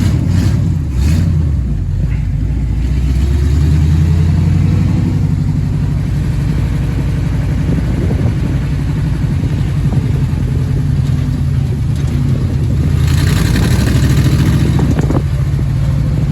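Jeep CJ5's AMC 304 V8 running as the Jeep is driven, its note swelling a few seconds in, with its header exhaust leak fixed. Two short clicks come about half a second and a second in, and a rush of hissing noise is heard about thirteen seconds in.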